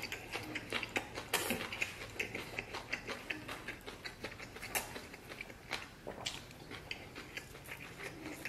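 Close-miked chewing of a mouthful of cold dressed tofu-skin shreds, rice and braised pork: irregular wet mouth clicks and smacks, several a second, with a few louder ones.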